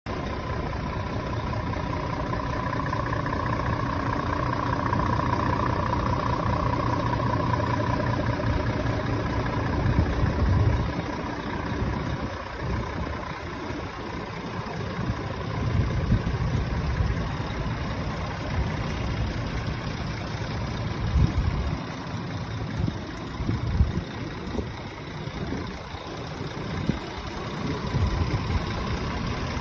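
Scania truck's diesel engine running at idle. A faint steady whine sounds over it for the first several seconds, and several brief louder bumps come later.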